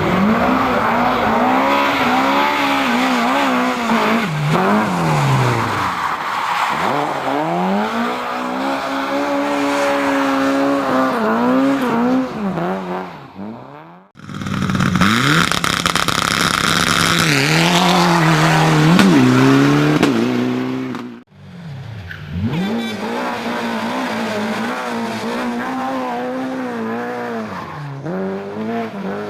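Racing car engines at high revs, the pitch climbing and dropping again and again as the cars accelerate, shift and brake, with the sound breaking off abruptly twice between shots.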